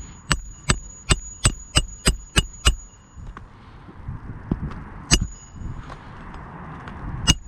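A quick, even run of about eight sharp clicks with a faint high metallic ring, roughly three a second, then a few single knocks near the end.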